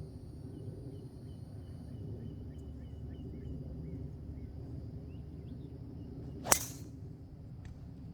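Golf club striking the ball on a tee shot: one sharp crack about six and a half seconds in, over a steady low rumble. The golfer calls it a very toey strike, hit off the toe of the clubface.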